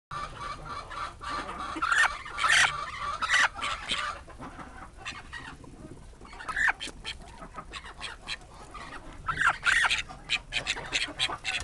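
Chickens clucking in short repeated calls, in bursts about two seconds in and again near ten seconds, with a quick run of short sounds near the end.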